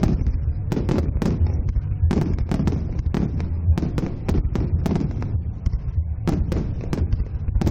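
Fireworks exploding: irregular sharp bangs and cracks, several a second, over a continuous low rumble.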